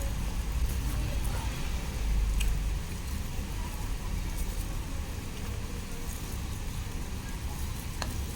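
Low, steady rumble of road traffic, swelling briefly about two seconds in as a vehicle passes, with a few faint clicks.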